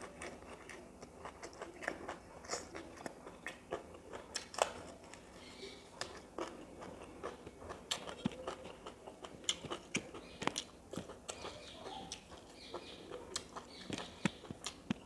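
Close-miked chewing and mouth sounds of a person eating with his mouth full, made up of many small, irregular clicks.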